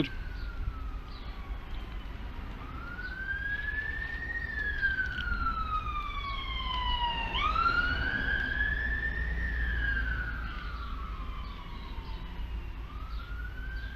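A distant emergency-vehicle siren wailing, its pitch slowly rising and falling about every five seconds, over a steady low rumble.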